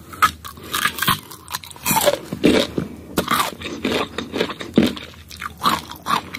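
Close-up mouth sounds of a person eating marang fruit: irregular chewing, biting and smacking as the soft flesh is worked off the seeds.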